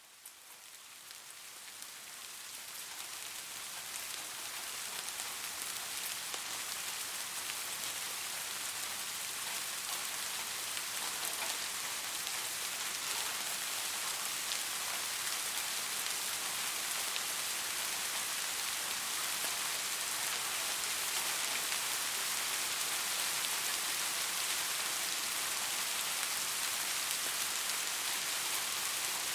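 Soft, steady rain pattering on a surface, with many fine drop ticks. It fades in over the first few seconds, then holds at an even level.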